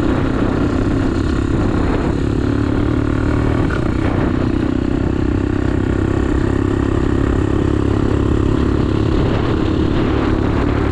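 Chinese 125cc single-cylinder pit bike engine running at steady, moderate revs while being ridden.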